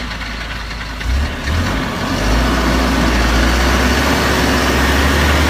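Heavy truck engine running, growing louder and deeper about a second in and again about two seconds in as it works harder.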